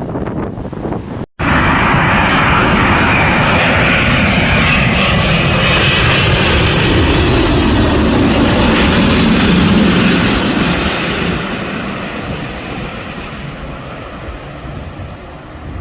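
An airplane passing close by, its engine noise loud and steady, peaking past the middle and then slowly fading as it moves away. A short dropout about a second in interrupts the sound.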